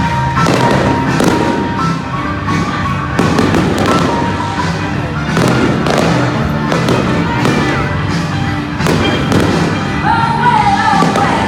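Fireworks going off in a long series of sharp bangs, several close together at times, over loud music playing throughout.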